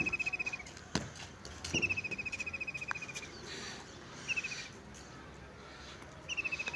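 A songbird repeating a fast, even trill, each phrase about one to one and a half seconds long and dropping slightly at the end, with one short trill between them. There is a single sharp click about a second in.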